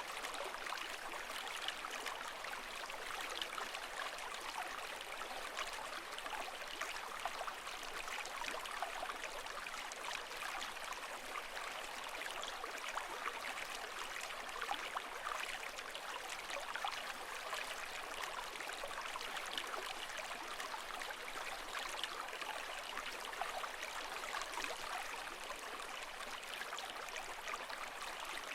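Steady flow of bubbling, trickling water, even throughout with no swell or fall of waves.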